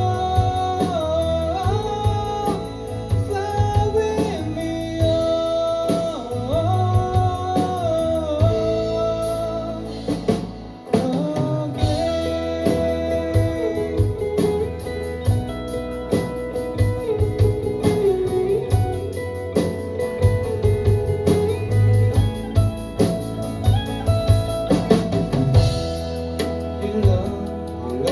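Live rock band playing: a sliding lead melody over guitars, bass guitar and drum kit, with a brief drop in the sound about ten seconds in before the full band comes back.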